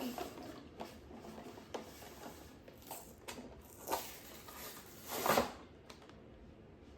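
A toy monster truck's package being handled and opened by hand: scattered small clicks and crinkles, with two louder rustling scrapes about four and five seconds in.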